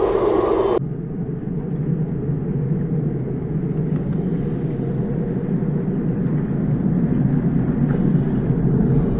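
Steady road noise heard inside a Toyota Tank minivan while driving: a low drone of tyres and engine, with an abrupt change in its tone a little under a second in.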